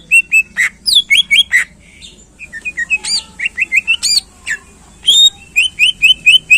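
Green leafbird (cucak ijo) singing a fast, varied song of sharp whistled chirps and slurred notes, with a brief pause about two seconds in and a quick run of about six repeated chirps near the end.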